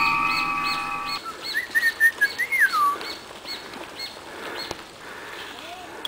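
Songbirds in woodland: a short high chirp repeated about three times a second, slowing toward the end, and a whistled phrase that ends in a falling glide. Synth music fades out about a second in.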